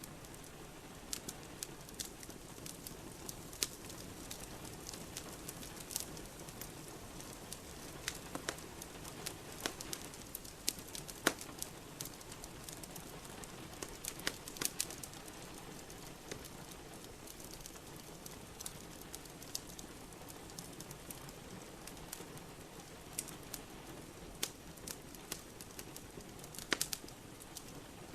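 Wood fire crackling in a fireplace, with irregular sharp pops, over a steady patter of rain.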